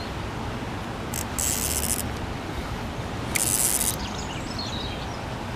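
Steady rush of water pouring over a weir, broken by two short, high crackling rustles about a second and a half and three and a half seconds in, with a few faint bird chirps near the end.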